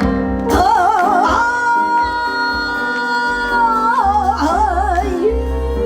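Daegeum (Korean bamboo transverse flute) playing a bird-call phrase: a wide, wavering vibrato, a long held note, then wavering again, over music with a low beat.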